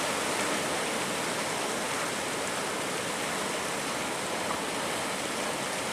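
Steady rushing noise of ocean surf breaking.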